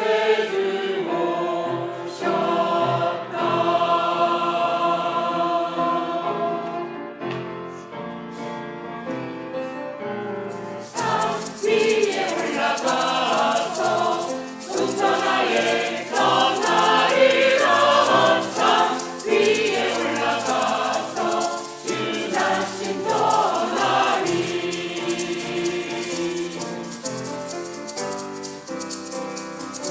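Church choir singing a Christmas cantata number with musical accompaniment. It opens on long held chords; about eleven seconds in, a busier rhythmic passage begins with a steady, shaker-like high percussion.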